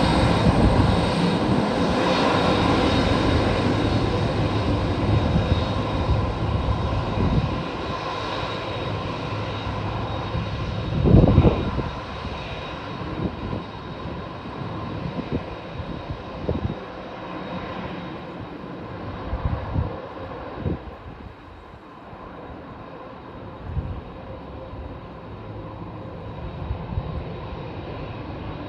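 Jet engines of a Boeing 767-300ER airliner, a steady roar with faint steady tones that slowly fades and grows duller as the plane draws away. Strong wind buffets the microphone in short low thumps, the loudest about eleven seconds in.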